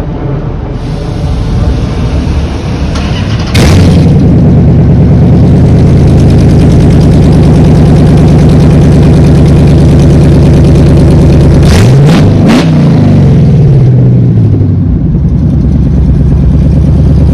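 Car engine with headers and no catalytic converter, freshly swapped in, starting about three and a half seconds in and settling into a loud, steady idle. Near twelve seconds it is revved once, its pitch rising and then falling back to idle.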